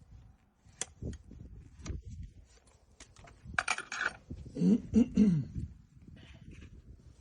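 Scattered sharp clicks and scrapes of hoof-trimming tools working on a horse's hoof, with a brief hiss about three and a half seconds in and then a short, loud, low wavering call, a voice-like sound from the animal or a person.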